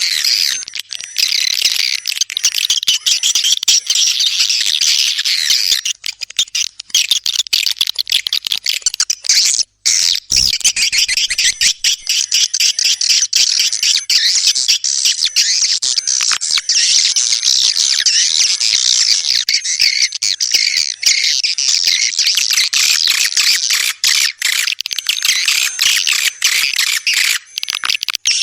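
Swiftlets calling: a dense, continuous chatter of rapid high-pitched chirps and trills, with a brief break about ten seconds in.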